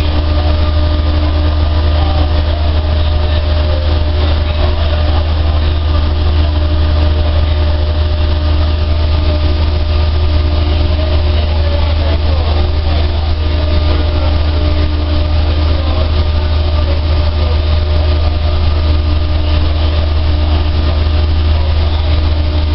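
A newly installed dryer's machinery running steadily: a deep, constant hum with a few unchanging tones above it.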